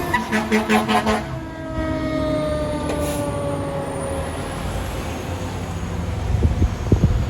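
Fire apparatus responding: a rapid series of pulsing horn blasts for about the first second, then a siren tone sliding slowly down in pitch over several seconds. A heavy truck engine rumbles underneath, growing louder near the end.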